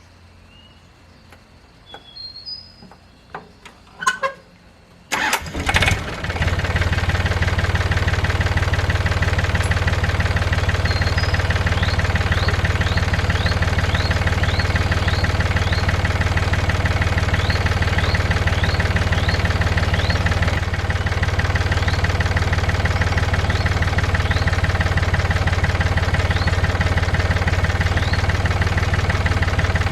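A few light clicks and knocks, then a tractor engine starts about five seconds in and settles into a steady, even run.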